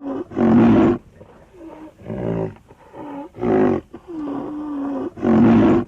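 A large animal calling over and over: about five loud, pitched roaring calls, each about half a second long, with one longer, steadier call in the middle.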